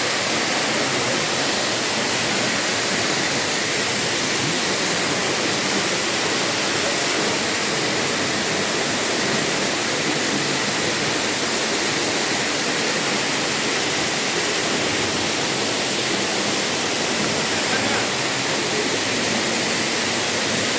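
Handibhanga waterfall, about 200 ft high, with its water falling heavily into the pool below: a loud, steady rush of falling water.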